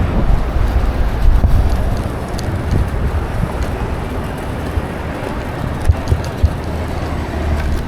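Wind rumbling on the microphone of a moving bicycle over the noise of city street traffic. Two short sharp knocks a little after six seconds in.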